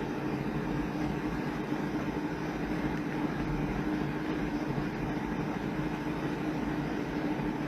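A steady machine hum with a constant low drone, unchanging throughout.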